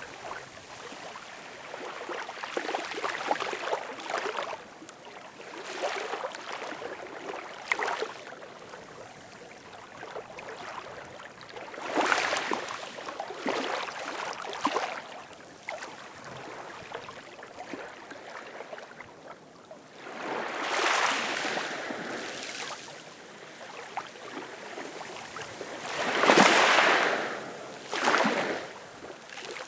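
Ocean waves washing in on shore, each swell of splashing hiss rising and falling away over a second or two, the loudest wave breaking about 26 seconds in.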